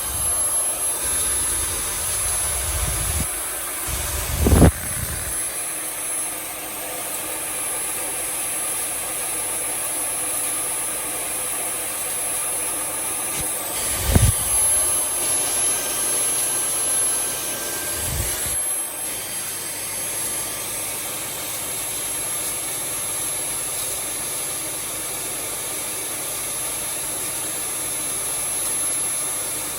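Dyson V8 cordless handheld vacuum running steadily with a high-pitched motor whine. A few brief thumps, about four and a half, fourteen and eighteen seconds in.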